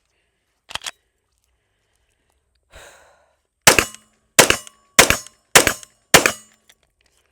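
Five 9mm shots from a Canik TTI Combat pistol, fired in quick succession about half a second apart. A short metallic double click comes about a second in, before the shots.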